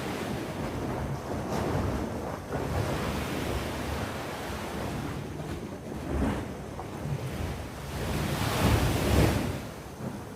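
Sea waves breaking and washing in a rising and falling rush, with the loudest wave surging about nine seconds in.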